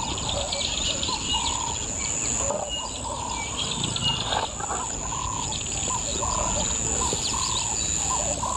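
Birds calling repeatedly, short arched calls about twice a second mixed with higher chirps, over a steady high-pitched drone of insects.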